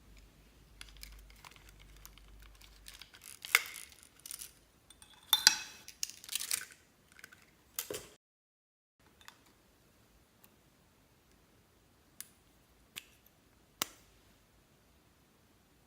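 Scattered small clicks, taps and crackles of hands handling makeup and slime: a busy run of handling noise in the first half, a moment of dead silence where the sound cuts out, then a few single sharp clicks.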